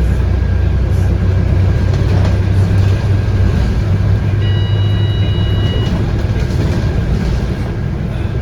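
Scania K230UB bus under way, heard from inside: its 8.9-litre five-cylinder Scania DC9 diesel and ZF Ecomat automatic gearbox make a steady low drone. About halfway through, a high tone sounds for about a second and a half.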